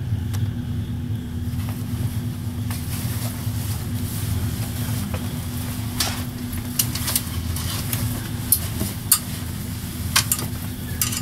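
Moving passenger train heard from inside the carriage: a steady low rumble of wheels on rails with a constant hum. Scattered sharp clicks and rattles come in the second half.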